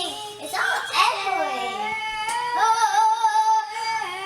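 Children singing, drawn-out held notes with sliding pitch and more than one voice overlapping.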